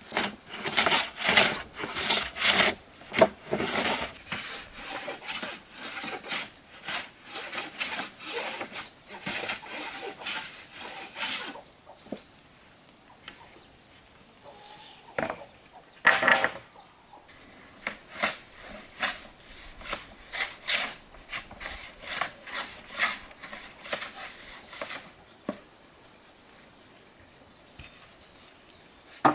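Irregular knocks and taps of woodworking on timber, coming in runs with short gaps, over the steady high drone of insects.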